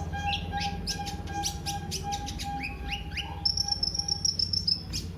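Kolibri ninja, a sunbird, singing: a fast run of sharp, downward-sweeping chirps, then a high steady trill near the end.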